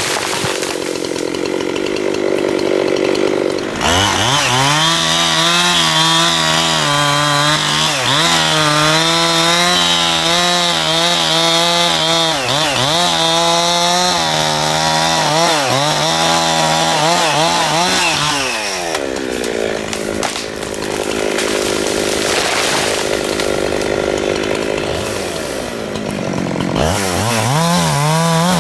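Chainsaw running, its engine speed jumping up to a steady high pitch about four seconds in, dropping lower for several seconds after the middle, and rising again near the end.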